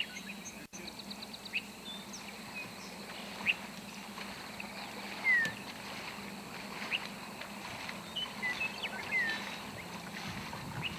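Outdoor ambience: scattered bird chirps and short gliding calls, including a quick trill about a second in, over a faint steady hiss and low hum.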